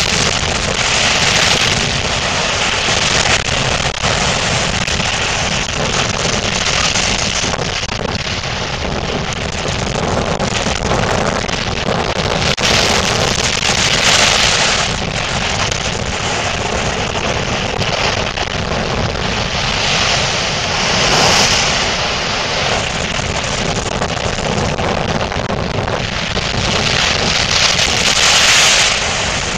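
Storm wind buffeting the microphone over the rush of a rough sea: a loud, steady rushing noise that swells in gusts several times.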